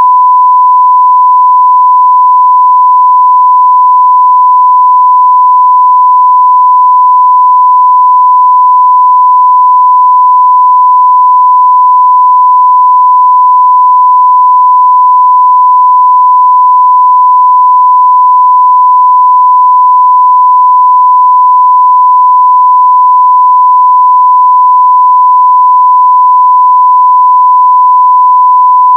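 Continuous 1 kHz sine-wave test tone at full scale (0 dBFS), a single pure pitch held perfectly steady.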